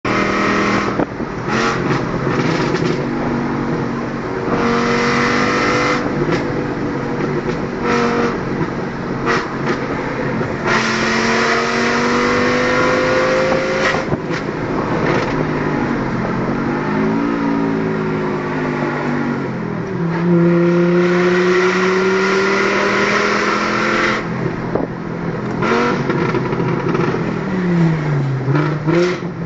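Volkswagen Golf Mk4 2.3 V5 five-cylinder engine running loud under acceleration through the gears. The pitch climbs steadily in each gear and drops at each shift, with a couple of places where the revs fall away and pick up again.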